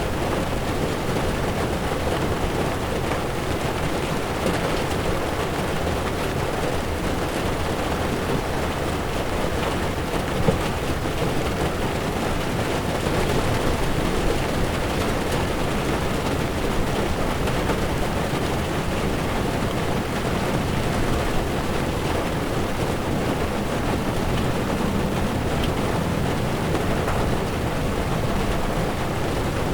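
Heavy rain falling steadily on a moving car's windshield and body, over the low rumble of tyres on a wet road. One brief louder tap about ten seconds in.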